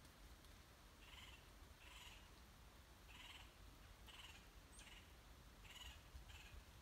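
Faint bird calls in woodland: a string of short, similar calls repeating about once a second, over a low rumble of wind or handling noise.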